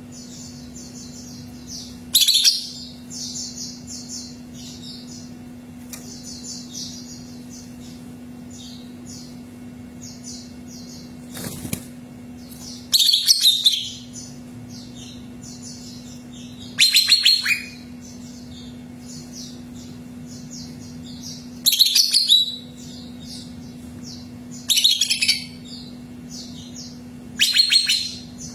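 Cucak ijo (greater green leafbird) singing: loud, high, rapid song phrases about a second long, repeated every few seconds, with softer quick chirping in between. A steady low hum runs underneath.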